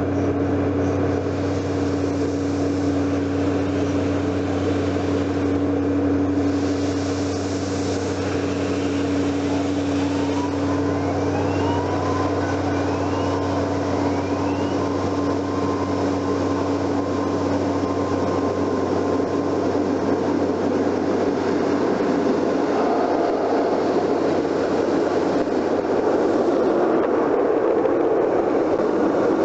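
Car running, heard from inside the cabin: a steady engine hum under road noise, which grows a little stronger past the middle.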